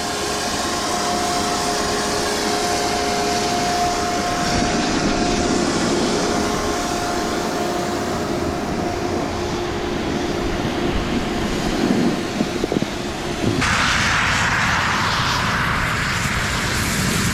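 Steady rushing noise of riding downhill on a snowboard, with a faint steady hum under it. About fourteen seconds in it turns suddenly brighter and hissier.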